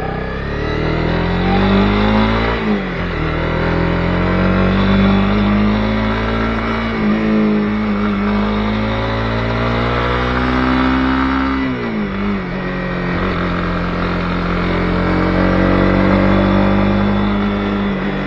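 Honda CB250R's single-cylinder engine pulling away and accelerating. Its note climbs, drops sharply at an upshift about 3 seconds in and again about 12 seconds in, and then holds steady at cruising speed.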